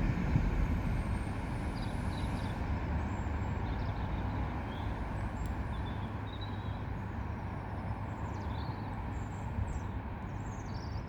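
Northern Ireland Railways Class 3000 diesel multiple unit pulling away from the platform, its low engine and wheel rumble slowly fading.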